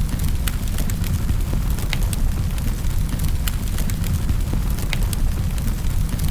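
Wood fire crackling in a fireplace: a steady low rumble of burning with irregular sharp pops and snaps, a few each second.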